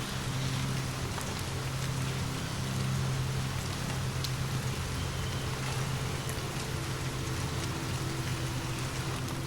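Steady rain falling, with occasional sharp drop ticks and a steady low rumble underneath.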